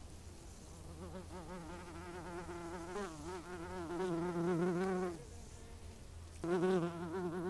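A flying insect buzzing with its wings, a wavering drone that rises and falls in pitch. It comes in two passes: from about a second in until about five seconds, then again near the end.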